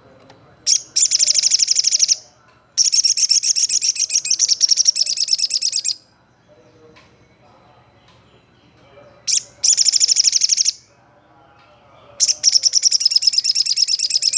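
Olive-backed sunbird singing: four bursts of rapid, high trilling notes, each one to three seconds long, the longest about three seconds.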